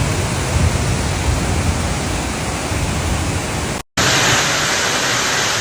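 Steady, loud hiss of torrential rain and rushing floodwater, cut off by a brief silent gap about four seconds in, then resuming.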